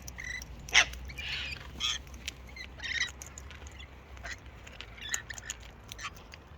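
Wild cockatoos feeding at close range, giving scattered short squawks and chirps, with small clicks and taps in between.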